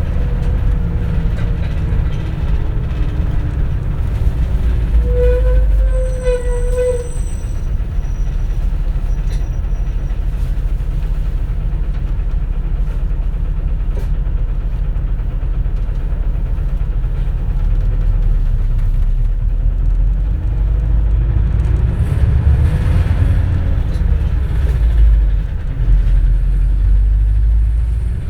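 Interior running sound of a CNG city bus: a steady, loud low engine and road rumble. A whine falls in pitch over the first few seconds, a brief pitched tone sounds about six seconds in, and near the end the whine rises and then falls again.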